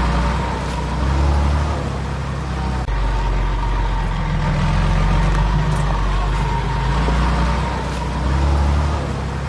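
Heavy diesel earthmoving machinery at work, its deep engine running steadily and swelling and easing in loudness every few seconds.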